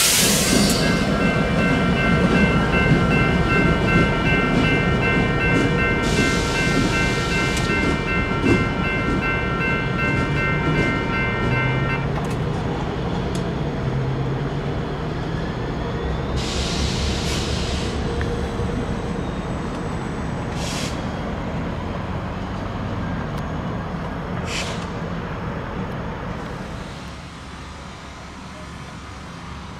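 Freight train rolling through a grade crossing, its steady wheel rumble slowly fading away. The crossing's warning bell rings in a quick pulsing tone for the first dozen seconds or so, then cuts off.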